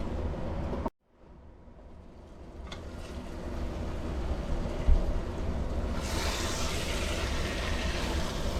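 Steady hiss and low rumble from a single gas burner under a covered pot of chicken gravy simmering on a low flame. It is broken by a cut to silence about a second in, a single knock about five seconds in, and a brighter hiss from about six seconds on.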